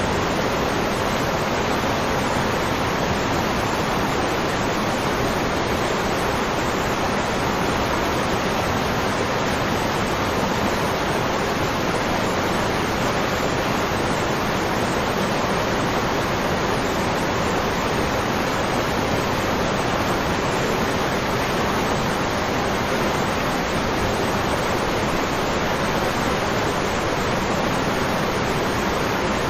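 Waterfall: a steady, unbroken rush of falling water, even in level, with no separate splashes or surges.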